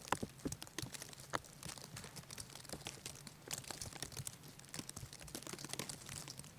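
Scattered light clicks and crinkling rustles, irregular and fairly quiet, with a stronger click right at the start and another a little over a second in.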